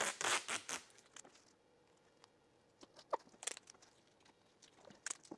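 Masking tape being pulled off its roll and torn: a quick run of short ripping sounds in the first second or so, then a few single rips and crackles as it is laid down.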